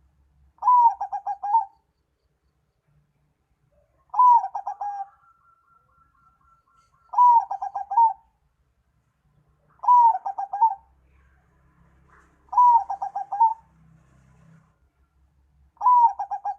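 A bird calling six times, about every three seconds: each call is one higher note followed by a quick run of about five lower pulses.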